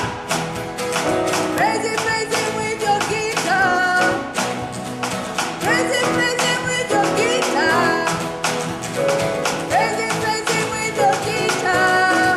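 Live worship band music with guitar, a steady beat and singing voices.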